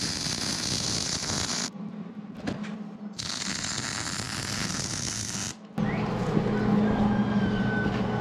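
MIG welder laying two short beads: a steady crackling hiss for about two seconds each, starting and stopping abruptly with a brief pause between. Near the end a steady low hum takes over.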